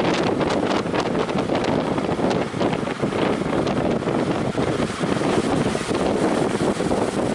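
Strong wind buffeting the microphone in a dense, steady rush, with the sea's waves mixed in underneath.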